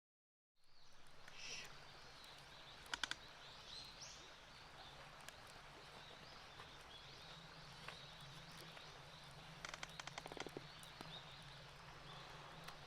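Faint outdoor ambience with small birds chirping now and then, a steady low hum underneath, and a few short sharp clicks about three seconds in and again around ten seconds.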